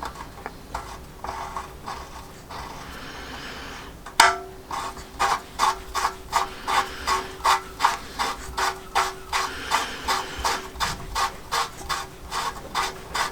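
A sharp metallic knock about four seconds in, then steady rhythmic clicking at about two to three clicks a second: a hand tool being worked on the bike's oil-line fittings.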